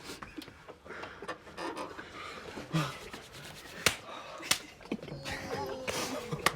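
People stifling laughter, with hard breathing and muffled snorts and snickers, broken by a few sharp knocks.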